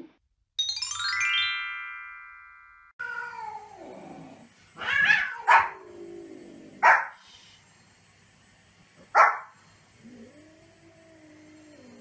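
A short jingle of falling chime notes, then a small white Pomeranian barking in four short, sharp, high yaps, a few seconds apart. A falling, meow-like cry comes just before the barks.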